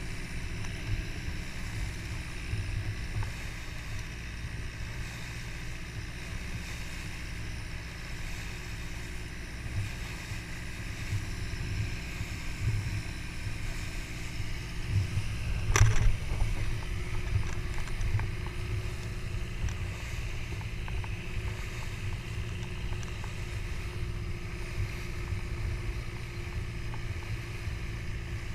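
A boat's engine running steadily, heard from on board as a low drone, with one sharp knock about halfway through.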